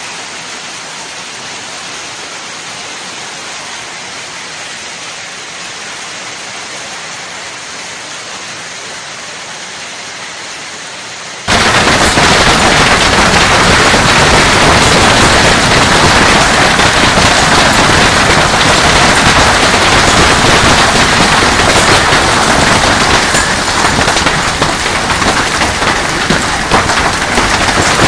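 Hailstorm with heavy rain: a steady hiss of downpour, then, about eleven seconds in, an abrupt change to a much louder, dense clatter of hailstones pelting hard surfaces.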